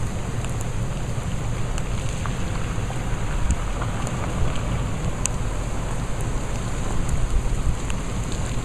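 Steady rushing of water with scattered drip-like ticks, over a low rumble of wind on the microphone.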